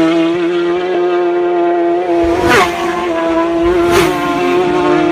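Racing motorcycle engine running at high, nearly steady revs. Short rushing sounds come about two and a half and four seconds in, and the pitch dips briefly just after the second.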